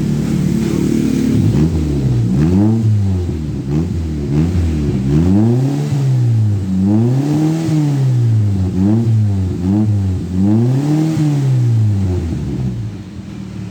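A 1992 Toyota Kijang Rover's engine is heard through an aftermarket exhaust. It runs steadily at first, then is revved up and down again and again in quick blips.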